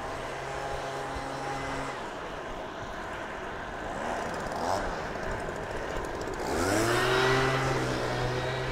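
Steady wind and road rush while riding a road bike. A motor vehicle's engine hums at a steady pitch for the first two seconds. A louder engine rises in pitch about six and a half seconds in as it speeds up, then holds steady.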